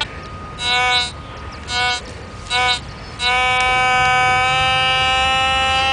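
Fisher F5 metal detector sounding a target: three short beeps about a second apart, then a long steady tone held from about halfway through. The strong high tone over a buried metal object is the kind of signal a coin can give.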